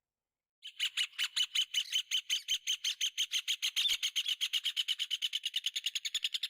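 Rufous hornero (red ovenbird) singing: a long, loud series of sharp, ringing notes that starts about a second in and speeds up into a fast trill.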